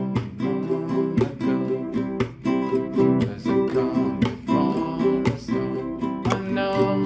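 Acoustic guitar strummed in a steady rhythm, the chord changing a few times.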